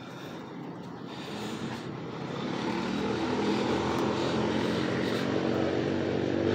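A motor's steady drone, growing steadily louder from about two seconds in.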